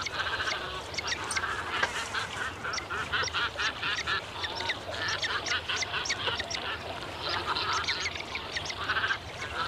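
Many birds calling at once in a nesting colony of waterbirds: overlapping short calls, many in quick repeated runs, with sharper higher notes mixed in.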